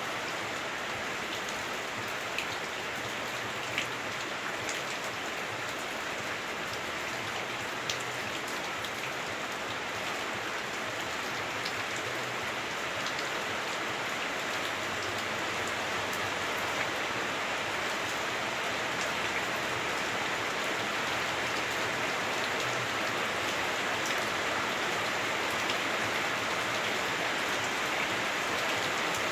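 Heavy rain falling on a house roof, heard from inside the house: a steady, dense hiss with a few sharper drop ticks, growing slightly louder toward the end.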